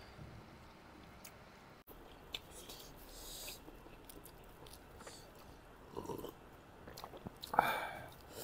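People chewing mouthfuls of food close to the microphone, with soft wet smacks and small mouth clicks, and a louder brief sound near the end.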